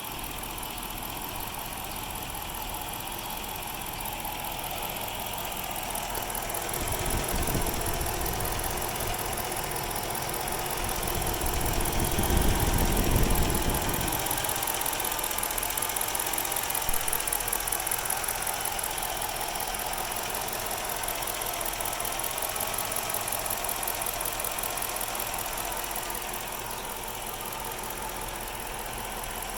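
2006 Chrysler 300C's 5.7-litre Hemi V8 idling with a very rough idle, growing louder for a while in the middle.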